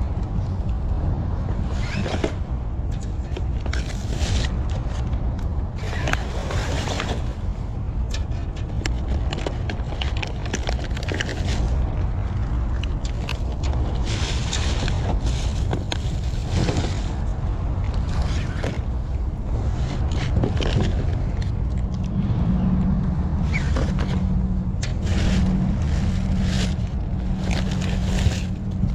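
Rummaging through trash in a dumpster: irregular rustling and scraping of bags and items over a steady low rumble. A low hum that breaks on and off comes in about two-thirds of the way through.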